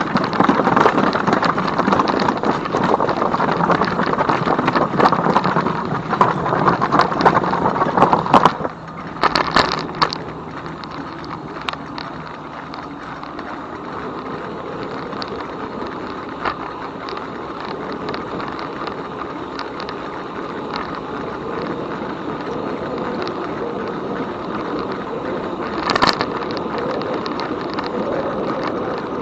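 E-bike riding noise: wind buffeting the microphone over tyre rumble and rattling clicks from the trail. It is loud and rough for the first eight seconds or so, then drops to a quieter steady rush, with one brief louder gust or bump near the end.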